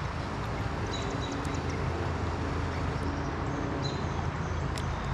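Steady outdoor noise of wind and moving river water, with two short, high bird chirps about a second in and again near four seconds in.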